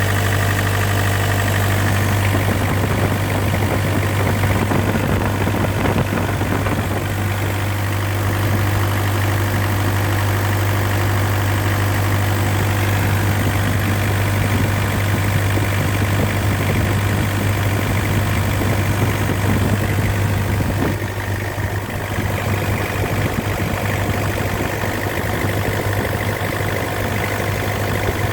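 Mitsubishi L200's 4D56 2.5-litre four-cylinder diesel engine idling steadily.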